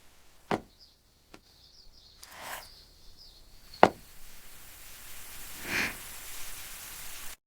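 A few sharp knocks, the loudest just before the four-second mark, with short soft swishes between them.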